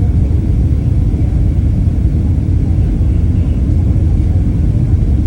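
Steady low rumble of a Boeing 767-300 airliner's cabin in flight, the engine and airflow noise heard from inside.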